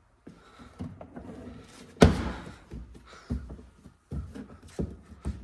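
Plastic access cover being pushed and knocked into place on a Polaris General's bed: a few separate knocks and thunks, the loudest about two seconds in.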